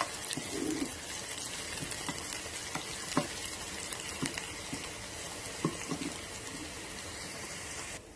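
Chopped hot peppers sizzling in olive oil in a nonstick pan, stirred with a wooden spoon that scrapes and taps the pan now and then. The sizzling cuts off suddenly near the end.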